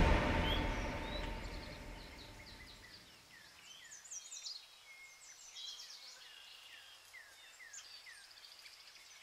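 The tail of music dies away over the first two seconds or so. After that comes faint birdsong from several birds: many short chirps and quick downward-sliding calls, with a few louder bursts about four and six seconds in.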